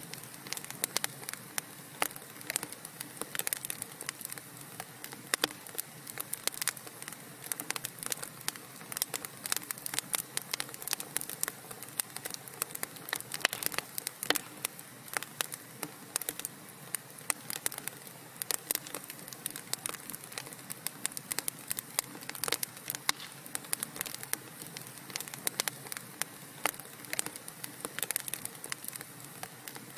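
Wood fire burning in a fireplace, with steady irregular crackling and popping over a soft hiss.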